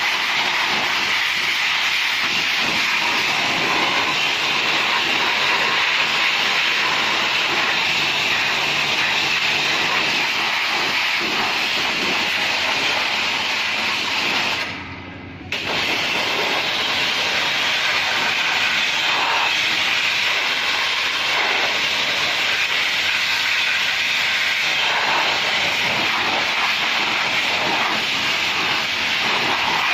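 High-pressure washer spraying a car with a steady hiss. It cuts out for about a second halfway through, then starts again.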